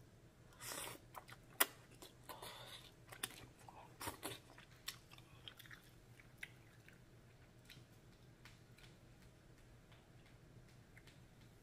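A person chewing a mouthful of noodles in black bean sauce, close to the microphone: faint wet smacks and clicks of the mouth, frequent in the first few seconds and sparser later.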